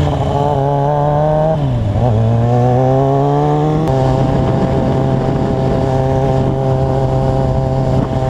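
Motorcycle engine running under way: the engine note climbs, dips briefly at a gear change about two seconds in, climbs again, then holds a steady pitch from about halfway.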